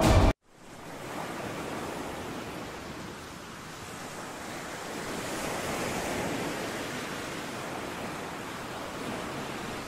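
A loud sound cuts off abruptly just after the start, followed by an even rushing ambient noise, like surf or wind, that swells gently around the middle and eases back.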